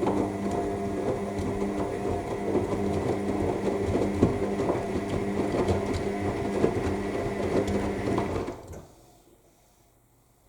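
AEG 7000 Series front-loading washing machine in its main wash: the drum motor hums steadily while the load tumbles in the drum, then the drum stops about eight and a half seconds in, a pause in the wash's turning.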